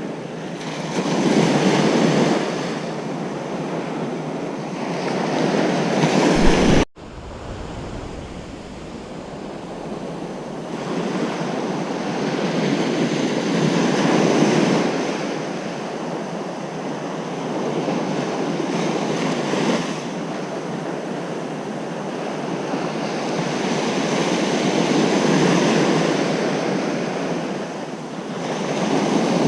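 Ocean waves breaking on a beach, the surf swelling and receding every four to six seconds. About seven seconds in there is a sudden brief break in the sound, like an edit splice, before the surf resumes.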